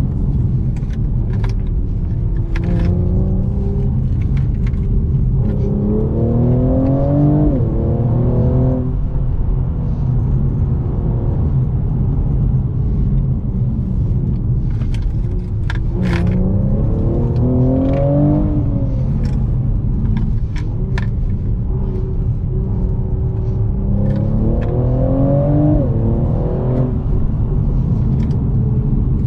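Mercedes-AMG E43's twin-turbo V6 driven hard, heard inside the cabin over a heavy, steady road rumble. Three times the engine note climbs in pitch and drops back at upshifts, with lighter running in between, and scattered sharp clicks throughout.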